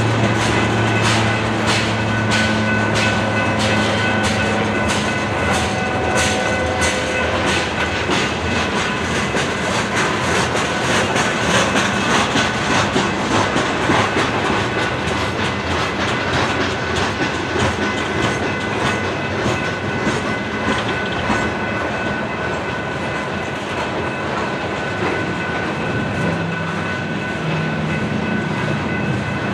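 Loaded coal train's open-top freight cars rolling steadily past, the wheels clacking in a quick even rhythm over the rail joints, with a thin steady ringing above the rumble.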